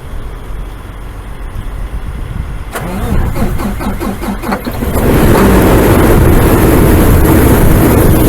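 Kenworth semi truck's diesel engine cold-started at ten below zero. The starter cranks it in a pulsing rhythm for about two seconds from around three seconds in. The engine catches about five seconds in and runs loud and steady.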